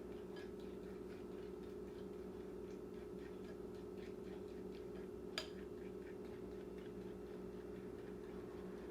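A steady low hum with faint scattered ticks, and one sharp click about five and a half seconds in.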